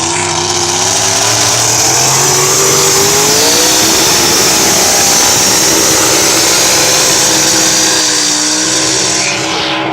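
A pulling truck's engine running loud at full throttle, its pitch climbing a few seconds in and holding high, then easing off near the end.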